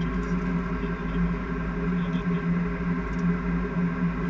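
Steady flight-deck noise of a Boeing 747-400: a constant low rumble with a steady hum whose pitch does not change.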